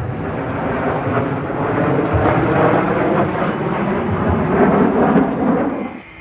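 Loud aircraft engine noise, a steady rushing roar that swells slightly and then cuts off suddenly just before the end.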